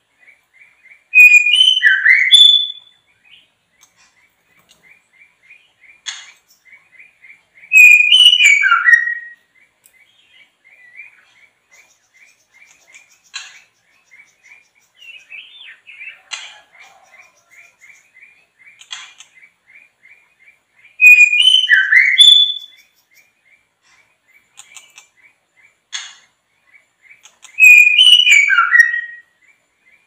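Songbird song: a loud, quick phrase of rising and falling whistled notes, heard four times several seconds apart, over a faint, fast, steady chirping.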